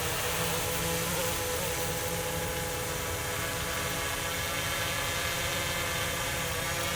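Steady buzzing hum of a small motor, its pitch holding nearly constant, over a continuous hiss.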